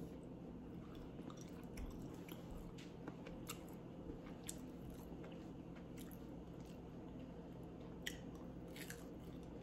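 Faint crunching and chewing of crispy fried green plantain fries, with small scattered mouth clicks.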